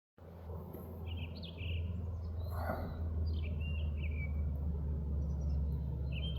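Wind rumbling steadily on the microphone, with short chirping bird calls about a second in, midway and again near the end.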